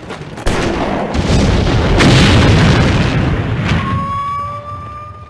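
An explosion from a film soundtrack: a sudden loud blast about half a second in, swelling into a long rumble that fades out near four seconds. As it fades, a steady high siren-like tone begins and rises slightly.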